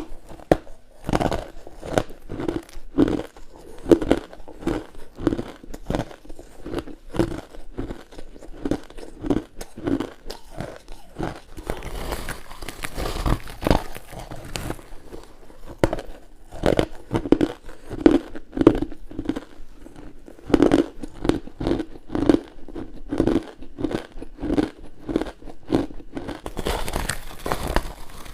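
Someone biting into hard, frost-covered ice and crushed ice: a continuous run of sharp crunches, often about two a second.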